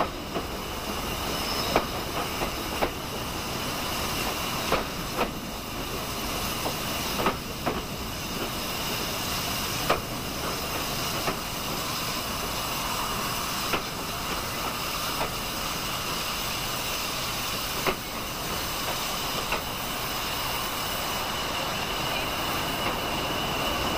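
Steam-heated passenger coaches rolling slowly along a platform: a steady hiss of steam from the train-heating supply, with irregular sharp clicks of the wheels over rail joints, most frequent in the first half.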